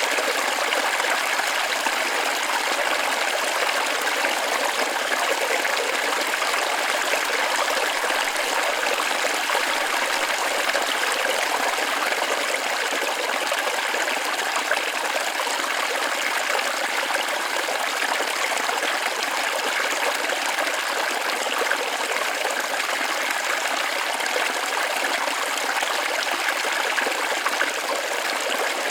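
Small forest waterfall splashing steadily: an even, unbroken rush of water, bright and hissy with no deep rumble.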